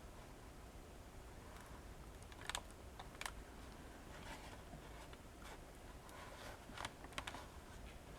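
Faint, scattered light clicks and taps of small toy pieces and packaging being handled, with a few sharper clicks in the second half.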